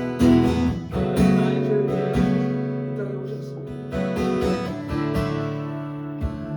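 Acoustic guitar strumming chords as worship accompaniment, with a strum about once a second.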